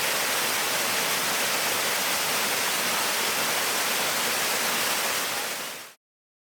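Steady rush of whitewater river, fading out just before the end.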